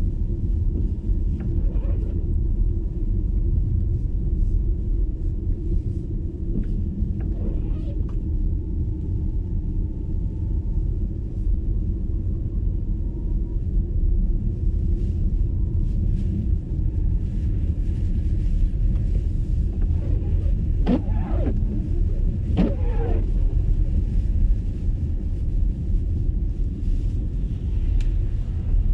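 Steady low road and tyre rumble of an MG ZS EV electric car driving, heard from inside the car, with no engine note.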